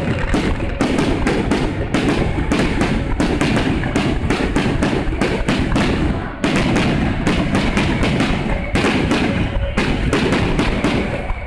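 Fireworks bursting in a dense barrage, several booms a second over a continuous low rumble, with a brief lull about six seconds in.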